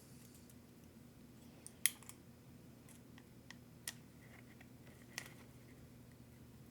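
A few sharp, scattered clicks and taps of small hard parts and tools being handled during RC truck repair, the loudest about two seconds in and others near four and five seconds, over a low steady hum.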